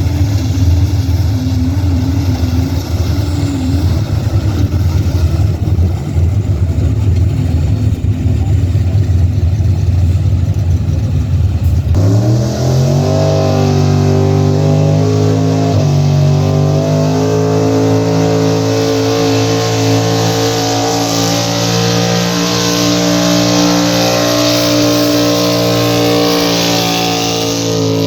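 A pulling vehicle's engine rumbles low and rough for a while. About halfway through it revs up quickly, then holds at high revs with a steady, loud note to the end, as on a pulling run.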